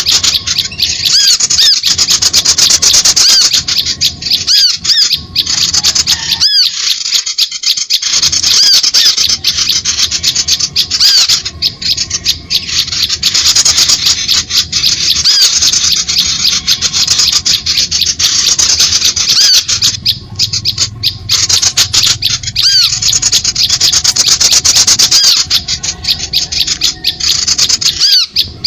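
Bird-trapping lure recording of small songbirds: a dense, unbroken chatter of rapid high-pitched chirps and squeaky calls, with short arched notes repeating over the top.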